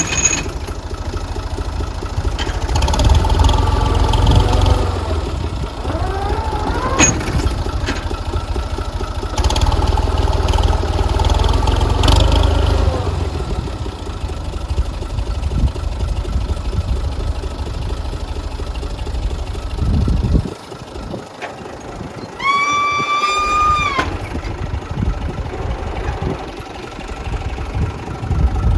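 Tractor engine running steadily, its pitch rising and falling at times. The rumble drops briefly about two-thirds of the way through, and a clear high tone sounds for about a second and a half shortly after.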